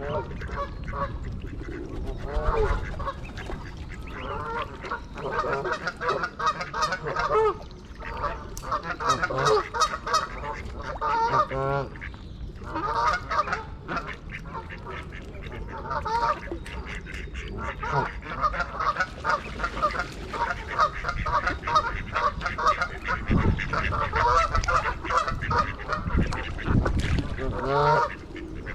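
Canada geese honking: a dense run of rapid, overlapping calls with only brief lulls.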